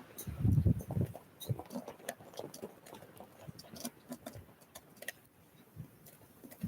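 Small birds pecking and hopping at a feeder: irregular sharp taps and clicks, with a few heavier low thumps in the first second.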